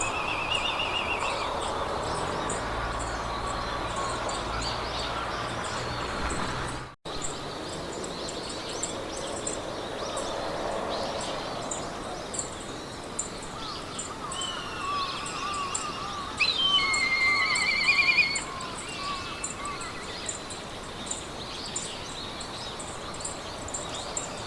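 Meadow ambience: a steady rush of wind through grass, with birds singing in repeated trills that are loudest for a couple of seconds past the middle. A faint, regular high ticking runs through it at about three a second. The sound cuts out for an instant about a third of the way in.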